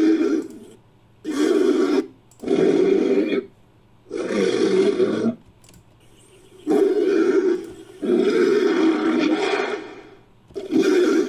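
Roars of an invented dinosaur, a sound effect mixed from Protoceratops and Megaraptor creature sounds: a run of about seven rough, growling calls, each lasting one to two seconds with short gaps between them. The longest call comes about two thirds of the way through.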